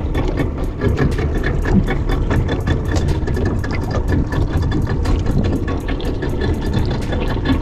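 Boat engine running steadily, with rapid small clicks and slaps over it.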